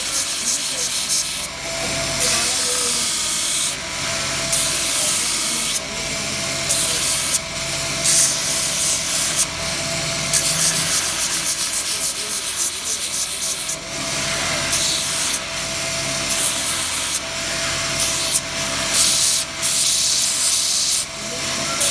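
Abrasive sanding or grinding on a knife blade: a steady, hissing rasp that jumps in level every second or two, as if in a string of short cuts, with a faint motor hum in some stretches.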